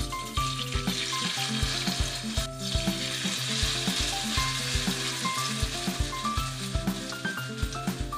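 Shredded zucchini-and-carrot fritter batter sizzling in hot oil in a frying pan as portions are spooned in with a wooden spoon. Background music with a steady beat plays underneath.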